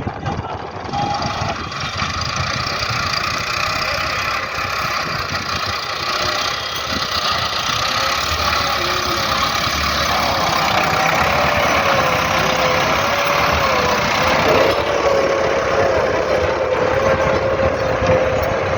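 Tractor engine running steadily, getting somewhat louder about halfway through.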